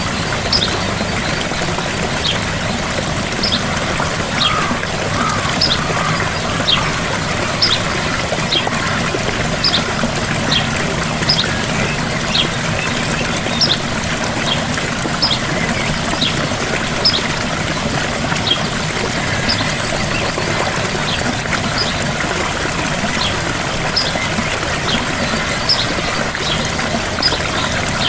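Gentle waterfall splashing steadily, with a bird repeating a short, high, falling chirp about once a second.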